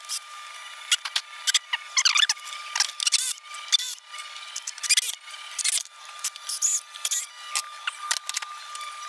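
Irregular clicks, clinks and knocks of tools and metal parts being handled while an assembly is taken apart, with a couple of short squeaks.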